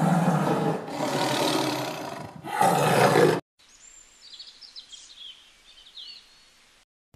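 A tiger roaring: two long roars and a shorter third, for about three and a half seconds. The roaring stops suddenly and is followed by faint, high bird chirps.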